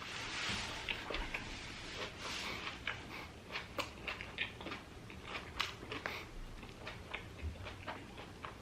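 A person chewing a mouthful of an In-N-Out Double-Double cheeseburger: soft, irregular clicks and smacks of the mouth, a few every second.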